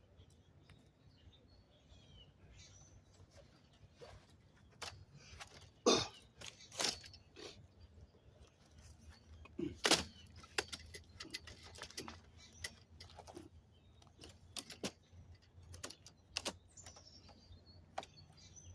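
Irregular knocks, clicks and clatter from a chair being set up close to the microphone, loudest about six, seven and ten seconds in. A few faint bird chirps are heard between them.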